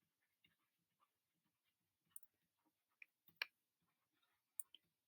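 Near silence with a few faint, scattered clicks, the clearest about three and a half seconds in.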